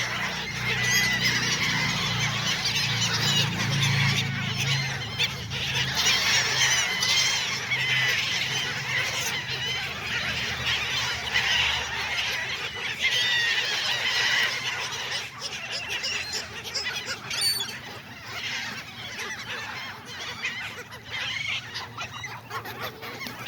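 A flock of gulls calling, many overlapping squawks and cries, growing sparser and quieter over the last several seconds. A low rumble sits underneath for the first eight seconds or so.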